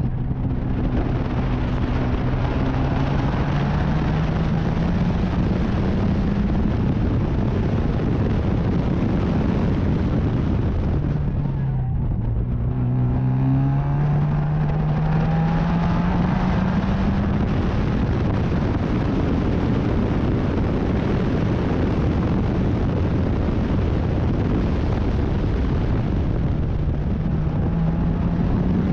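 Racing car engine under load, its pitch climbing steadily for several seconds, dropping sharply as it comes off the throttle about twelve seconds in, then climbing again as it accelerates away, over a constant rush of wind and road noise.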